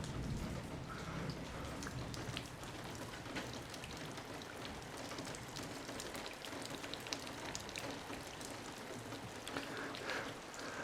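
Rain falling steadily, an even hiss with many separate drops striking close by.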